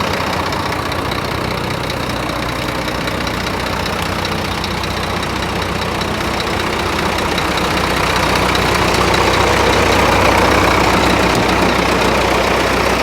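Scania P340 truck's five-cylinder diesel engine idling steadily, getting somewhat louder past the middle.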